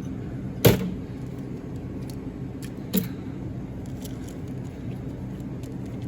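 Steady low machine hum, with a sharp knock about two-thirds of a second in and a lighter knock about three seconds in, as parts are handled.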